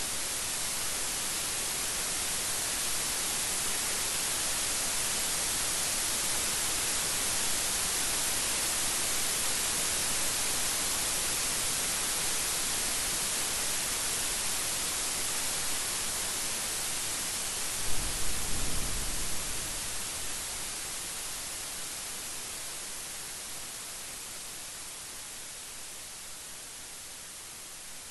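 Steady rain hiss that slowly fades over the last part. A short, low rumble of thunder comes about two-thirds of the way through.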